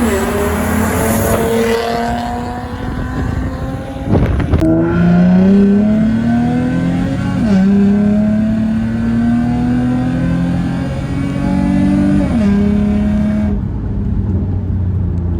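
Nissan 350Z's 3.5-litre V6 accelerating through the gears on its aftermarket full-system valved exhaust: the engine note climbs, drops sharply with an upshift, and climbs again three times. A sharp crack at the first shift, about four seconds in.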